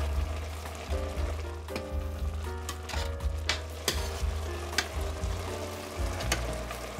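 Ground beef and onions frying in a stainless steel pot, with a steady sizzle and a spatula stirring and scraping against the pot now and then. Background music plays alongside.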